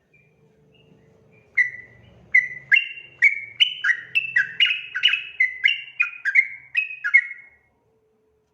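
Yellow-vented bulbul (trucukan) singing a long, rapid run of about a dozen bubbly, chirping notes that starts about a second and a half in and comes faster toward the end, stopping shortly before the close.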